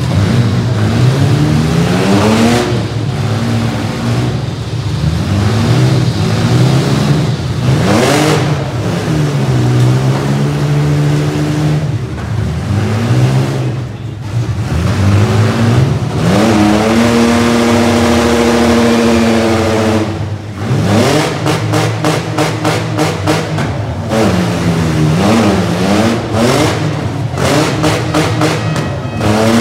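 Several demolition-derby mini trucks' engines revving hard and dropping back, their pitch rising and falling over and over. Sharp crashes of metal on metal from collisions come now and then, with a quick run of them about two-thirds of the way through.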